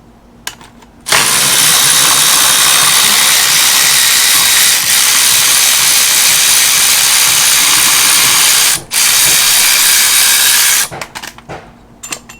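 A cordless power tool running steadily as it spins out the starter's mounting bolt on an LS V8 engine, stopping briefly near the end and then running on for another two seconds, followed by a few light metal clinks.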